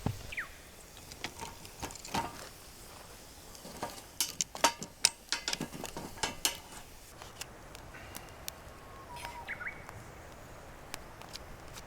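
A bird calls twice with short falling notes, once near the start and again about nine seconds in. Between them, from about four to seven seconds, a quick run of sharp clicks and knocks is the loudest sound.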